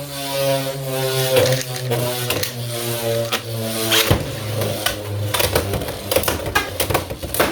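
Two Beyblade X spinning tops whirring in a plastic stadium with a steady humming drone. From about four seconds in, the drone is broken by a quick run of sharp clacks as they hit each other hard.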